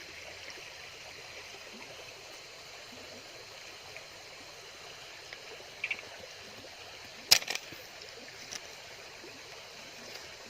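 Steady rush of flowing water, with one sharp click about seven seconds in and a few fainter clicks around it.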